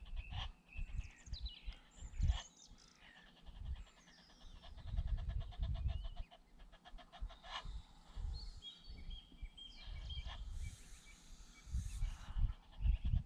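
Birds chirping and calling, with short whistles and trills coming one after another. An uneven low rumble comes and goes beneath them.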